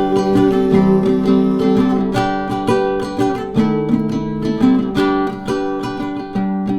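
Acoustic guitar strumming chords as an instrumental passage between sung lines of a song.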